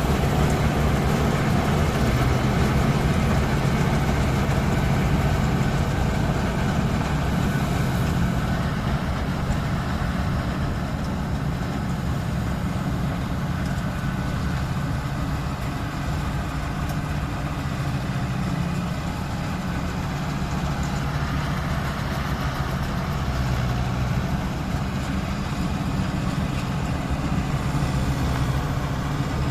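Mahindra Novo 655 DI tractor's diesel engine running steadily, its low engine sound even throughout and a little quieter in the middle.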